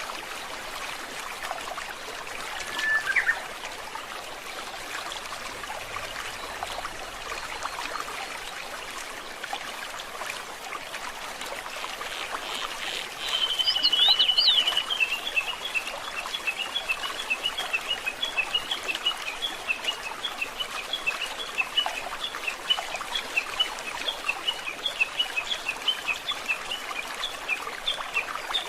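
Stream water trickling steadily, with birdsong over it: a short call about three seconds in, then about halfway through a loud trill that runs into a long series of rapid, evenly repeated chirps.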